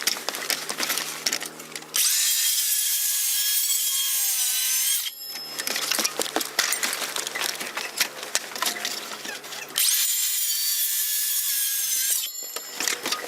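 A power tool cutting wood in two passes, each about three seconds long, starting suddenly and hissing loudly. Between the passes there is rattling and knocking, over a steady low hum.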